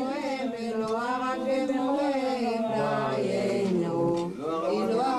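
Several people chanting a slow melody together, the held notes gliding up and down.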